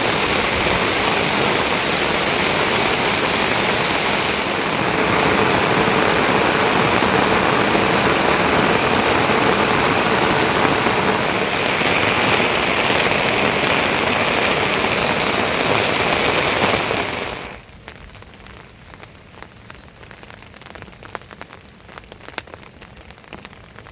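Heavy rain pouring down as a loud, steady hiss. It shifts in character a couple of times, then cuts about 17 seconds in to much lighter rain with scattered drips.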